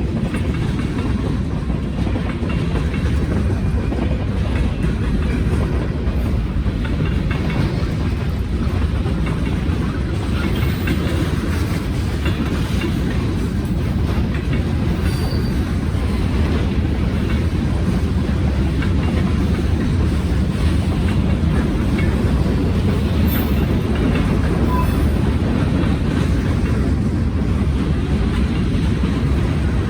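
Norfolk Southern freight train 196's cars rolling past in a steady low rumble, with wheels clattering over the rail joints.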